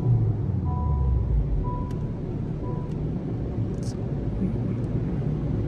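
Honda Civic Type R FL5's turbocharged 2.0-litre four-cylinder winding down after a dyno pull. The engine note falls in pitch over the first second or so, then settles into a steady low drone.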